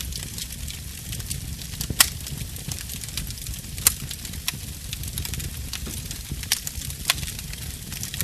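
Wood campfire crackling: a steady low rumble of flames under constant small ticks, with about five sharp, loud pops, the loudest about two seconds in.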